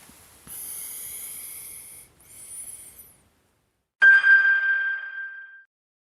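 A high hissing sound, then a short high gliding tone, then a single bell-like chime struck about four seconds in, ringing out for about a second and a half before the sound cuts to silence.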